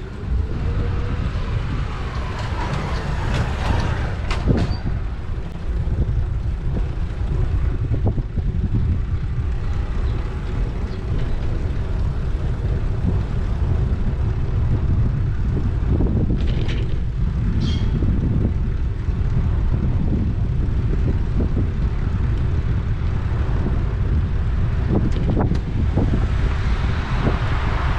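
Wind rumbling steadily on a bike-mounted action camera's microphone while cycling, with street traffic going by; the passing noise swells briefly near the start and again near the end.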